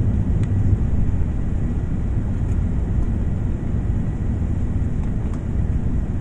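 Jet airliner noise: a steady low rumble with a faint thin high tone above it.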